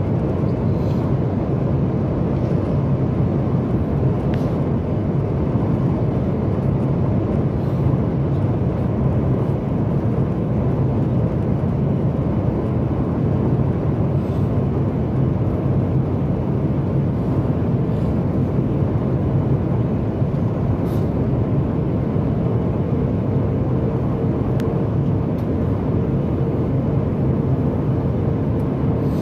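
Steady cabin noise inside a Boeing 737 MAX 8 airliner, the even rumble of airflow and its engines, with a faint steady hum joining about three-quarters of the way through. The airliner is descending towards landing.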